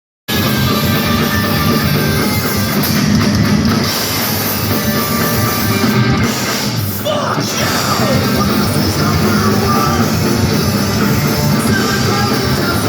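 Loud live punk rock from a band: distorted electric guitars and pounding drums, with singing over them.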